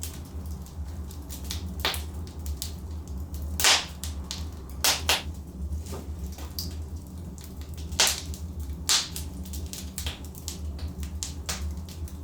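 Logs burning in a fireplace, crackling with sharp, irregular pops over a steady low rumble of the flames. The loudest pops come about a third of the way in and again about two-thirds in.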